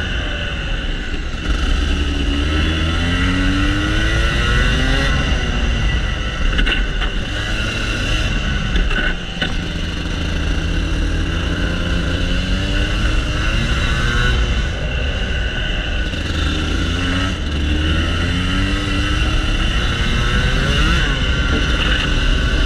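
Rotax Max Senior 125 cc two-stroke kart engine heard onboard at race pace. Its pitch rises repeatedly over a few seconds as the kart accelerates, then drops off into the corners.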